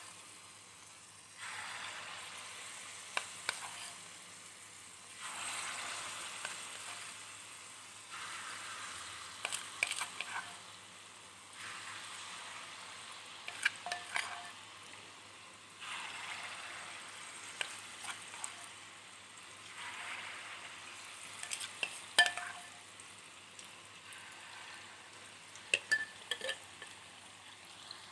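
Banana fritter batter frying in hot oil: the sizzle swells every few seconds as more batter goes into the pan, with sharp clinks of a spoon against the pan.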